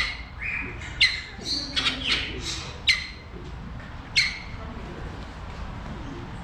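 Captive birds squawking: a run of loud, sharp calls, each sliding quickly down in pitch, over the first four seconds or so, then dying away.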